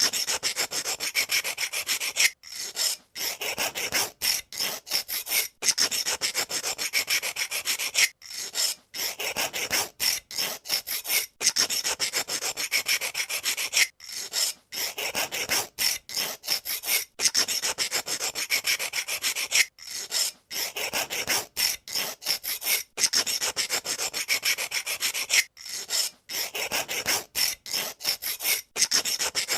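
Pencil sharpener shaving the wood of a pencil: a dry, rasping scrape that comes in runs broken by brief pauses.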